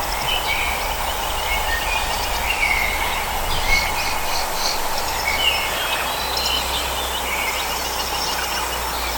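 Tropical rainforest ambience: several birds chirping and whistling in short calls over a steady hiss of background noise, with a rapid run of notes about four seconds in.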